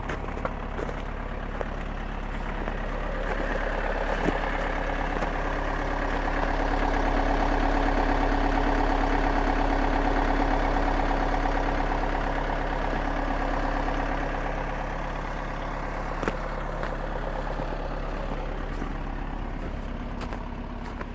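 VW Sharan's 2.0 four-cylinder diesel engine idling steadily in the cold, about −4°C after two weeks standing. The engine note grows louder toward the middle, then eases back.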